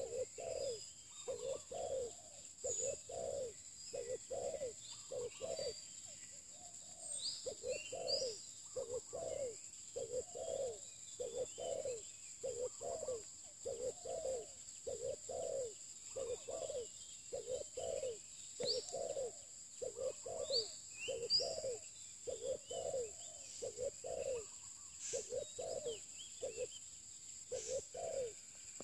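Spotted doves cooing: runs of low repeated coos, a few a second, broken by short pauses. Small birds chirp now and then over a steady high whine.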